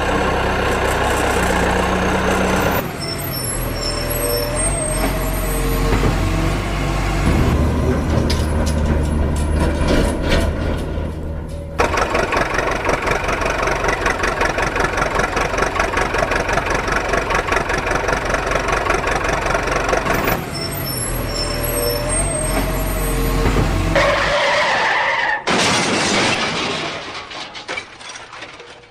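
A string of cartoon truck and vehicle sound effects, one after another, switching abruptly every few seconds.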